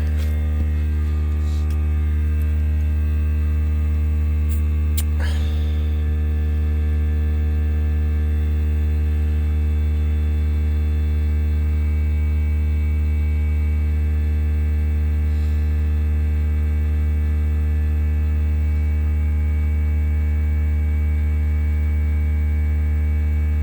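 Electric air compressor running steadily with a loud, even hum, building its tank pressure back up after air has been drawn off to fill a tyre. A few light clicks sound about five seconds in.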